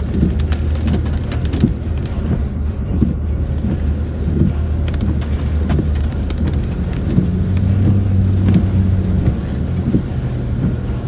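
Land Rover Discovery 4 driving on tarmac, heard from inside the cabin: a steady low engine drone with road noise, the engine note lifting slightly about seven seconds in. Scattered light ticks run through it.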